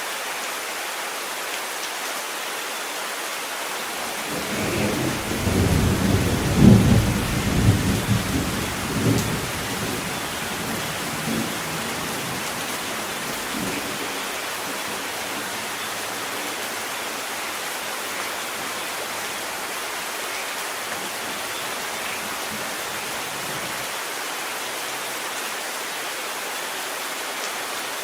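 Steady heavy rain, with a roll of thunder that builds about four seconds in, peaks a few seconds later and rumbles away over several more seconds.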